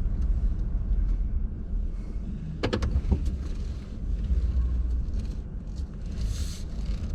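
Truck engine running at low speed, a steady low rumble heard from inside the cab, with a couple of sharp clicks about three seconds in and a brief hiss near the end.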